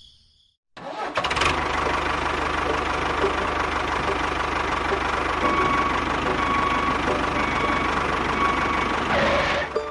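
A small engine running steadily. It starts about a second in and cuts off suddenly near the end.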